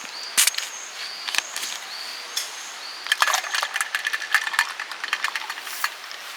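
Light metal camp gear clinking: a few separate sharp taps about a second apart, each ringing briefly, then a run of rapid rattling clatter from about three seconds in until just before the end.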